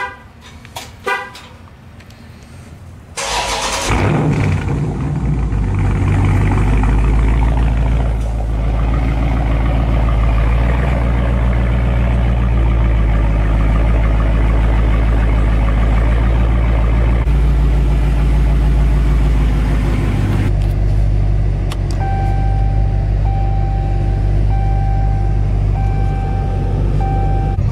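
Two short clicks, then about three seconds in a Dodge Charger Scat Pack's 392 (6.4-litre) HEMI V8 starts warm, not a cold start, and settles into a steady idle. In the last few seconds a warning chime beeps about once a second over the idle.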